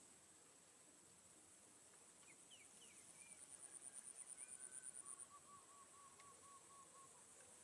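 Faint natural ambience: an insect's high, steady buzz that swells into a fast pulsing trill for a few seconds, with a few short bird chirps over it. After about five seconds comes a quick run of about eight even, lower bird notes.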